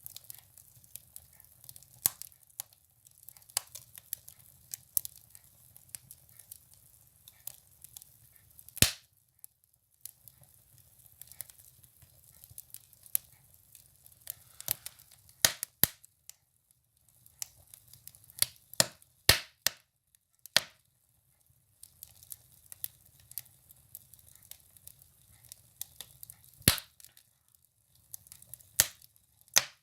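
Firewood burning in a wood stove, crackling with irregular sharp pops and a few louder cracks scattered throughout.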